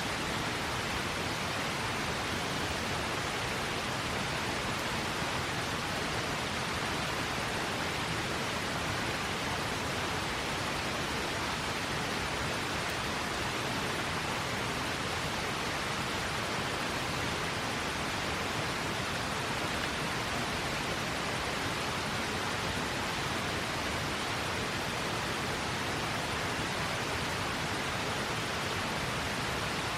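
River water flowing: a steady, even rushing with no change in level.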